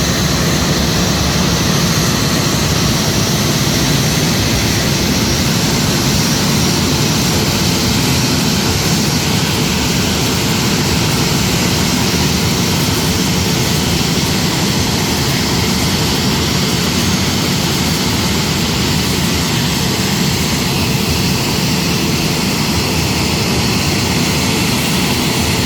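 Boeing 737 MAX jet engines running steadily as the airliner taxis in, close by.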